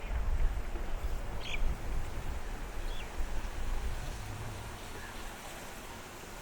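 A low, uneven rumble swells over the first few seconds and then fades, with two short bird chirps about a second and a half apart.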